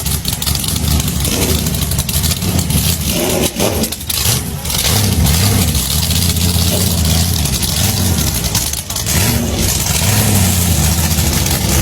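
Motorcycle engine running and revving, its pitch rising and falling, with short dips in level about four seconds in and again near nine seconds.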